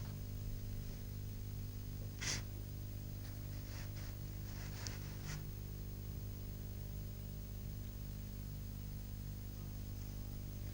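Steady low electrical hum, with a few faint, brief scratchy taps; the clearest comes about two seconds in.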